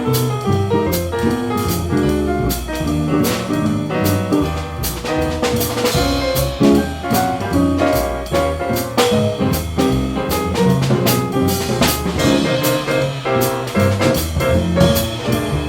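Small jazz group playing live in swing: drum kit with cymbal strokes, piano, and a double bass walking underneath.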